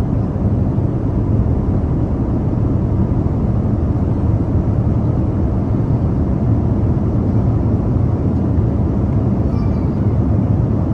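Steady cabin noise of an airliner in flight: a constant low rumble and rush from the engines and airflow, heard from inside the cabin.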